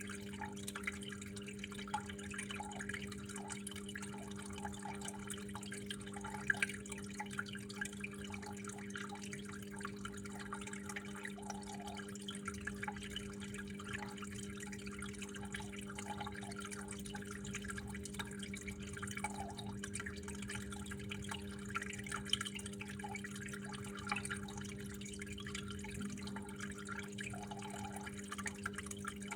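Water trickling and dripping, with irregular small plinks and an occasional sharper drop. A steady low hum runs underneath.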